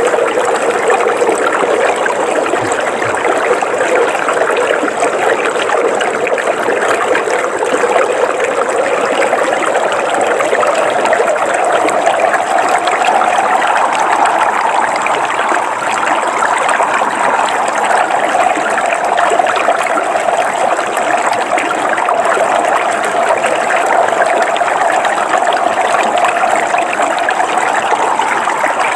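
River water flowing over rocks in a steady, continuous rush, its pitch lifting a little about halfway through.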